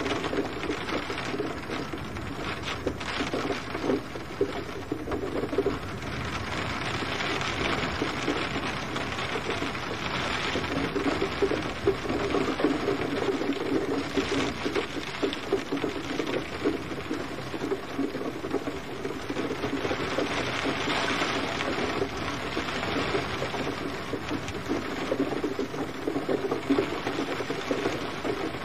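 Steady rain falling, a dense patter of many small drops striking a surface.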